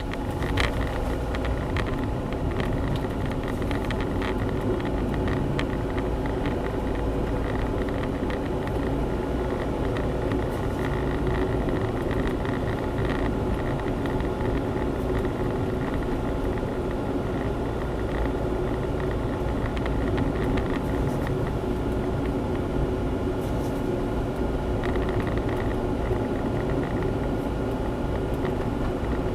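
Honda Zest kei car heard from inside the cabin while driving: steady engine hum and road rumble, with a few faint ticks.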